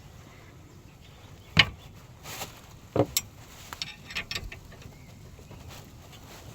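A few separate knocks and clinks of hand tools or metal parts being handled, the loudest about one and a half seconds in, another about three seconds in, with lighter clicks after it.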